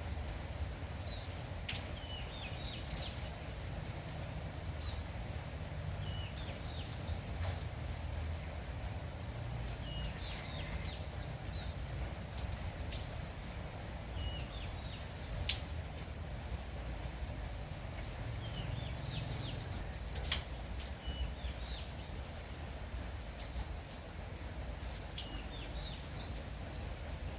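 Light morning drizzle with a steady low rumble, a small bird repeating a short chirping phrase about every four seconds, and scattered sharp drips.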